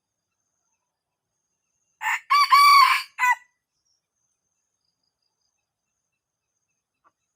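Red junglefowl cock crowing once, a short loud crow in a few clipped parts that ends abruptly.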